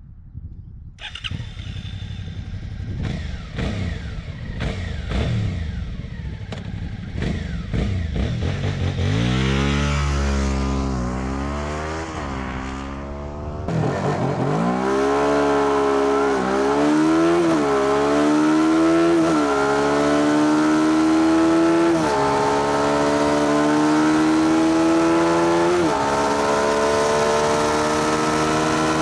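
Suzuki V-Strom 650's V-twin engine accelerating hard from a standstill, its note climbing through the gears with a short drop at each upshift, each gear pulling longer than the one before.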